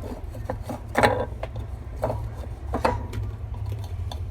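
Hands fitting the splined lock piece of a washing machine's basket support onto its spin tube: scattered clicks and knocks of plastic and metal parts, the loudest about a second in, over a steady low hum.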